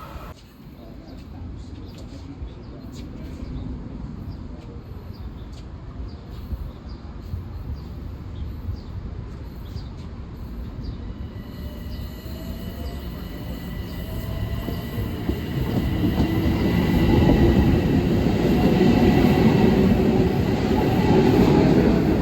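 A Long Island Rail Road train approaching on the tracks, its rumble growing steadily louder and becoming loud in the second half, with a steady high whine joining about halfway through.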